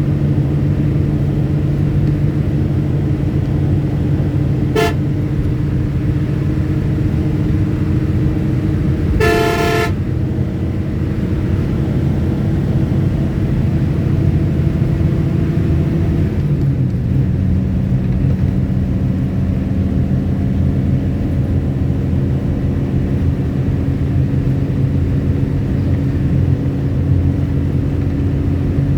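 A motor vehicle's engine running steadily, with a short horn toot about five seconds in and a longer horn blast about nine seconds in. The engine note changes about sixteen seconds in.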